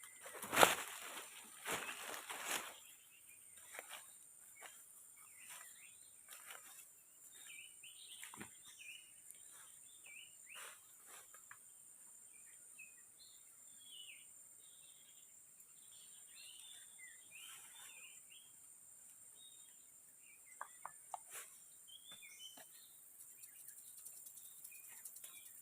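Forest ambience: a steady high insect drone with scattered short bird chirps. A few sharp knocks come in the first three seconds, the loudest about half a second in.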